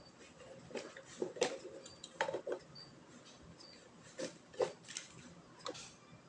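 Scattered light clicks and knocks of small metal parts and tools being handled while a bicycle is assembled.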